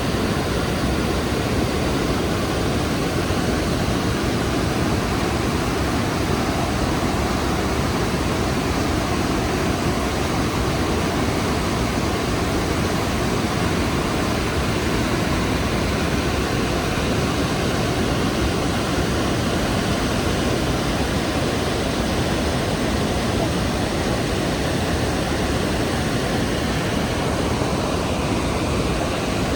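The Rhine Falls waterfall, a large river falling over rock, heard close up as a loud, steady rush of water with deep rumble and hiss, unchanging throughout.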